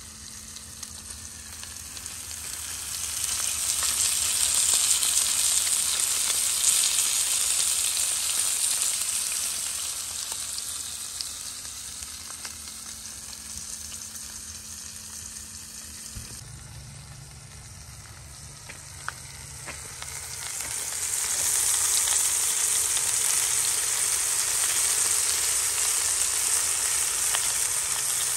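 Bacon sizzling in a cast-iron skillet, the sizzle swelling and then fading. After a cut about halfway through, sizzling again, louder from about 21 s on, from a seasoned whole chicken searing in a cast-iron Dutch oven.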